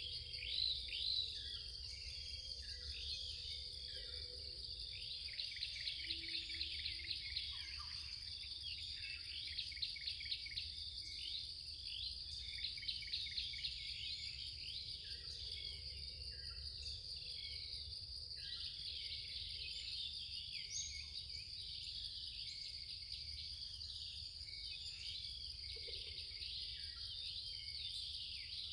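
Woodland ambience: a steady, high-pitched insect drone with many small birds chirping throughout, including several runs of fast repeated notes.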